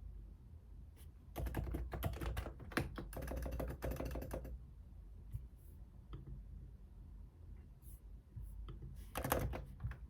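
Typing on a computer keyboard: a fast run of key clicks lasting about three seconds, then a few scattered keystrokes, then another short burst near the end.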